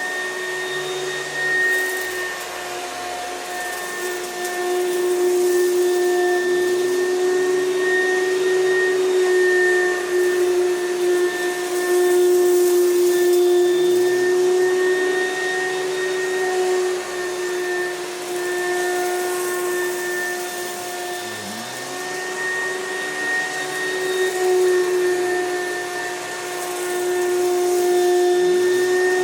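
1996 Oreck XL model XL9100 upright vacuum cleaner running: a steady whine over the rush of air, quite loud, its level swelling and easing every few seconds.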